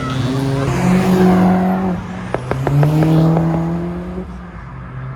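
Car engine and exhaust accelerating away. The pitch climbs, drops sharply at about two seconds as if on a gear change, then climbs again, with a few sharp cracks around two and a half seconds.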